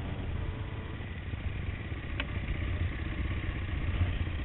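Trail motorcycle engines idling steadily, with a single brief click about two seconds in.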